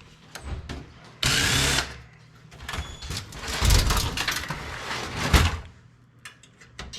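A power drill runs in one short steady burst about a second in. It is followed by a few seconds of clattering and several heavy knocks as metal computer parts are pried apart and handled.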